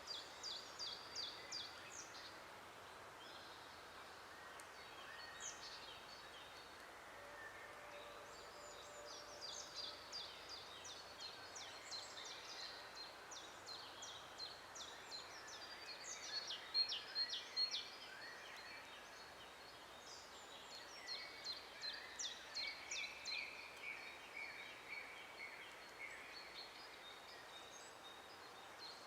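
Songbirds singing in a forest: several birds give quick trains of short, high notes over and over, and a lower warbling phrase joins about two-thirds of the way through, all fairly faint over a soft background hiss.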